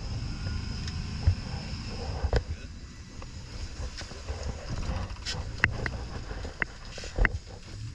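Steady low rumble of wind and water on an open boat at sea, broken by scattered sharp clicks and knocks, a few bunched together past the middle.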